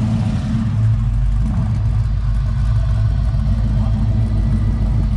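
Classic 1960s muscle car's engine rumbling steadily at low speed as the car drives slowly past and pulls away.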